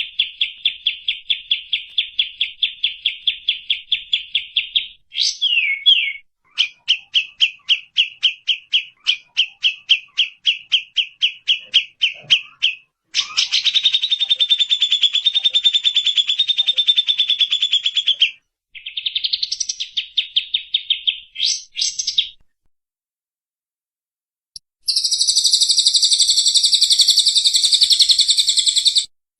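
Edited bird-call recording used to train songbirds, strung from several birds' calls: fast runs of repeated sharp notes at several a second, a dense continuous trill, and after a short silence a higher, dense, buzzy song. The sections start and stop abruptly.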